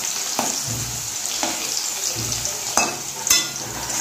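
Potato wedges sizzling steadily as they fry in mustard oil in a metal kadai, with a spatula scraping and knocking against the pan a few times as they are turned.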